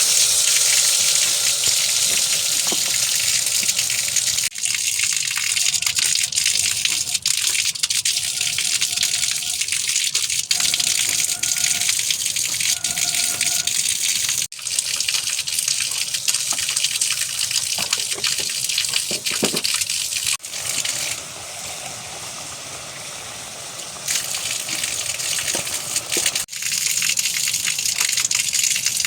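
Steady, loud rushing water, a dense hiss broken by a few sudden cuts. A short, clear tone repeats about five times in the first half.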